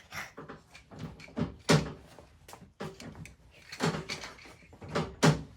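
Irregular knocks, clicks and clunks of hard parts being handled, with three louder thumps: about two seconds in, near four seconds, and near the end.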